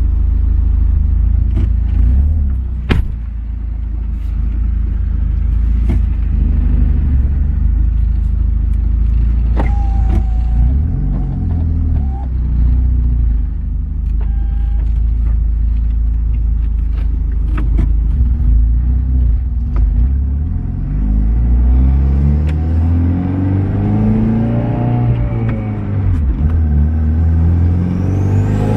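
Built 2.0-litre Theta turbocharged four-cylinder engine of a Hyundai Genesis Coupe on the move, a steady low rumble with a few sharp knocks. In the last several seconds the revs rise and fall repeatedly as the car accelerates.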